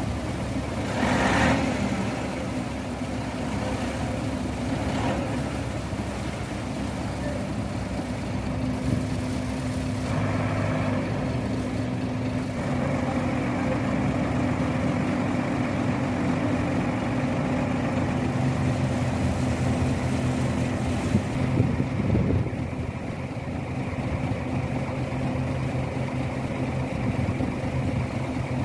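Heavy engine of concrete-pouring machinery running steadily, with a brief louder surge about a second in.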